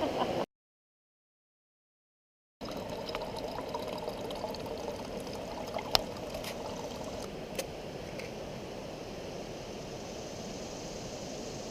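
Steady rush of fast-flowing river water, with a couple of sharp clicks midway. It starts after about two seconds of dead silence.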